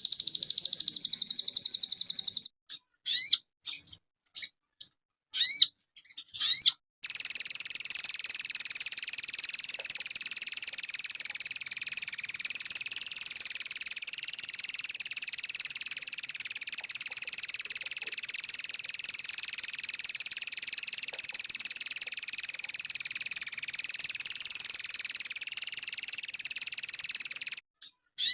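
Recorded calls of a sogon songbird: a fast high trill, then a few sharp, sweeping chirps, then a long, steady, high-pitched buzzing trill for about twenty seconds before it stops near the end.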